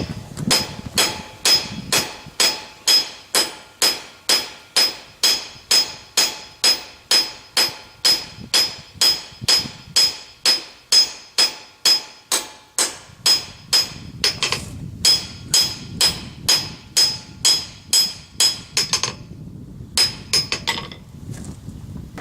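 Round face hammer striking hot steel on an anvil in a steady rhythm, a little over two blows a second, each blow ringing. This is smoothing out cross peen hammer marks. The blows stop briefly near the end, then a few more quick ones follow.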